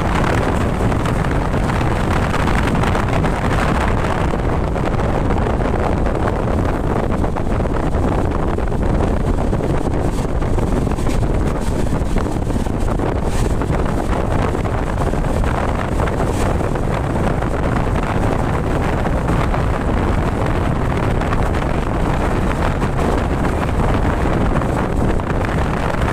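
Passenger train running steadily between stations, its even rumble mixed with wind buffeting the microphone.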